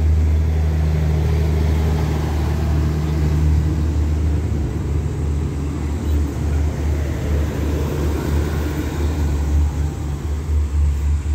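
State Railway of Thailand passenger coaches rolling past as the train pulls out, a steady low rumble of wheels on rail. Near the end the rumble breaks into uneven pulses.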